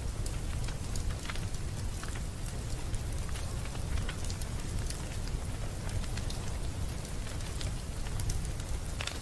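Wood fire burning in a fireplace: a steady low rumble of flames with irregular crackles and pops, a louder pop near the end.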